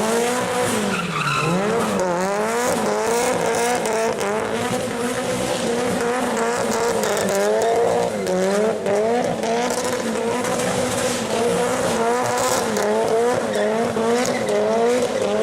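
A car engine held at high revs, its pitch swinging up and down over and over, with tyres squealing as the car drifts or does donuts.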